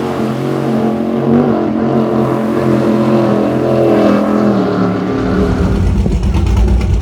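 Offshore racing powerboat engines running hard at speed, a loud steady engine note. About five seconds in it gives way abruptly to a deeper, rapidly pulsing exhaust rumble.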